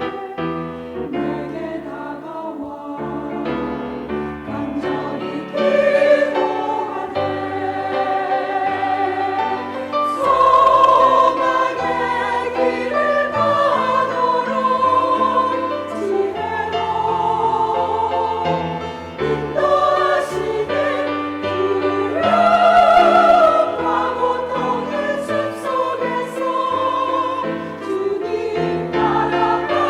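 Church choir singing an anthem in several parts, swelling louder about ten seconds in and again a little past twenty seconds.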